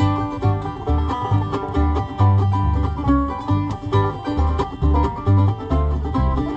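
Acoustic bluegrass band playing an instrumental passage: banjo picking over strummed guitar, with bass notes falling about twice a second.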